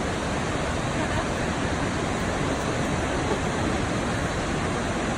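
Waterfall on the Krka River, water rushing steadily and evenly.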